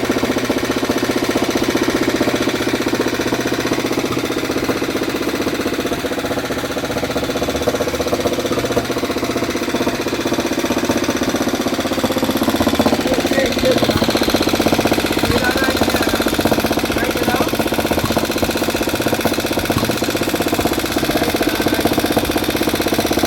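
1950 BMW single-cylinder four-stroke engine, freshly rebuilt, running steadily with a rapid, even beat.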